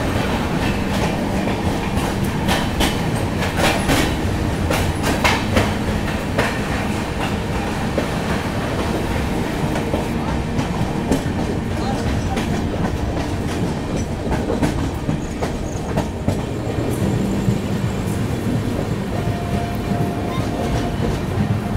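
Passenger express train running, heard from an open coach doorway: a steady rumble of wheels on rail with clickety-clack from rail joints and points, the sharp clicks coming thickest in the first several seconds and thinning out later.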